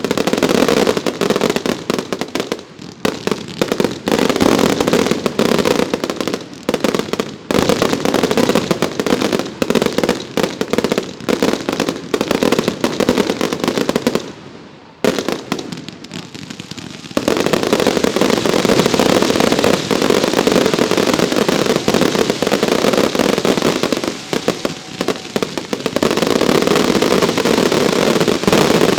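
Professional fireworks show: a dense, rapid barrage of bursts and crackle that thins to a short lull about halfway, then resumes as an unbroken barrage.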